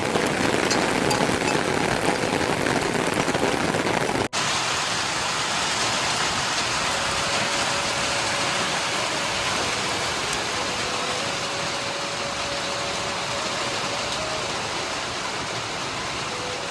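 Steady heavy rain, an even hiss that breaks off for an instant about four seconds in and then carries on a little softer.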